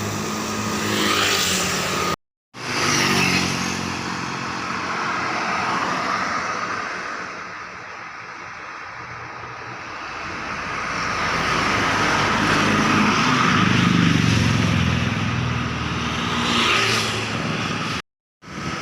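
Heavy diesel truck engines running, growing louder and then fading as the trucks go by, in separate clips with two abrupt cuts to silence.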